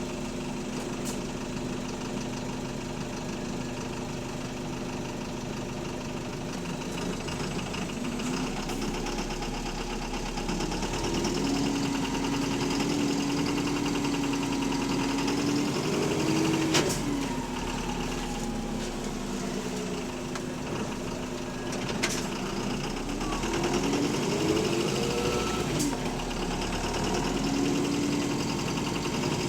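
Bus diesel engine heard from inside the bus, idling and then rising in pitch twice as it pulls away and accelerates, with a loud knock from a worn connecting-rod bearing (rod knock). A few sharp clicks stand out.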